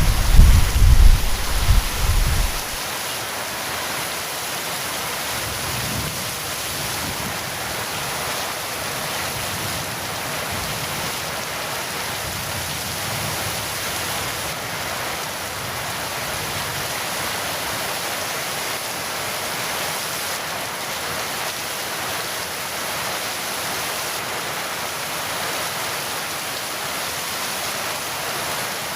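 Heavy rain falling steadily, with a loud thunder rumble that dies away about two and a half seconds in.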